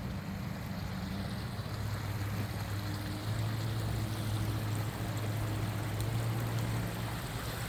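Steady hiss of falling rain, with a low steady hum underneath that grows louder about two seconds in.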